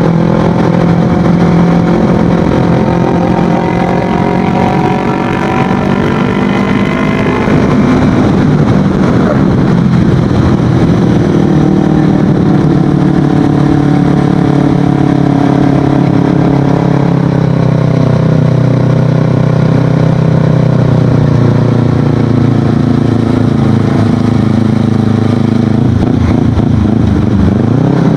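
Kawasaki Ninja 250FI motorcycle's parallel-twin engine running under way through an aftermarket Akrapovic exhaust. The engine note holds steady, changes pitch several times, and dips then climbs again near the end.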